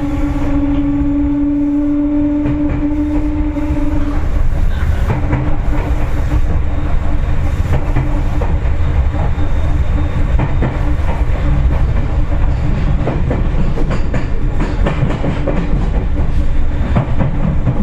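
Seibu 4000 series resistor-controlled electric train running, heard from inside the car: a heavy low rumble of wheels on rail with repeated clicks over rail joints. A steady hum sits on top, breaks briefly about four seconds in and fades out about two-thirds of the way through.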